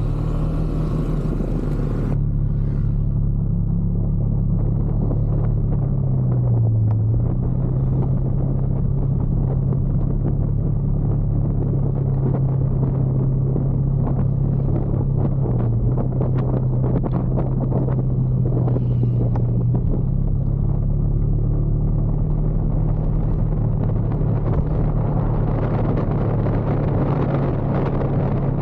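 Motorcycle engine running steadily on the move, a low drone that dips and shifts in pitch a few times as the speed changes, over rushing road and wind noise.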